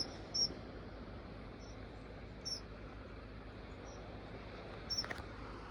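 Small songbirds giving short, high call notes at irregular intervals, about seven in all, with one notch louder about five seconds in; the birds are calling at a kestrel. A brief click sounds about five seconds in.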